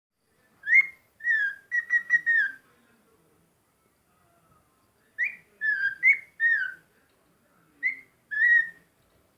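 A bird singing in clear whistled notes: three short phrases of a few slurred, slightly falling notes each, separated by pauses of a couple of seconds.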